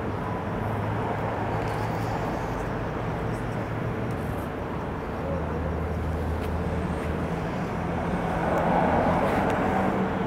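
Outdoor background noise with a steady engine-like hum, whose pitch shifts about five seconds in, and a louder swell of noise near the end.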